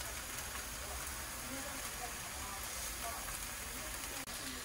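Red-seasoned deodeok root strips sizzling steadily in a frying pan on a gas stove, with one faint click a little after four seconds in.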